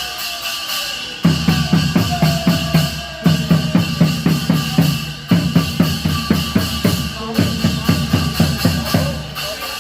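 Drums beating a fast, steady rhythm of about four strokes a second, in phrases broken by short pauses.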